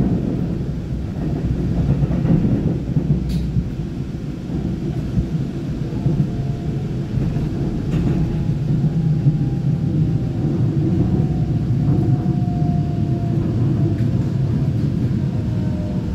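Interior of a Taiwan Railway EMU900 electric multiple unit on the move: a steady low rumble of wheels on rail. Over the second half a faint whine from the traction equipment slowly falls in pitch as the train slows.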